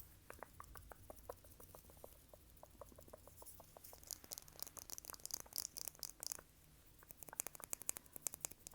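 Fast, close-miked ASMR tapping and clicking: a quick run of small pitched taps, about five a second, for the first few seconds, then bursts of rapid crisp clicks.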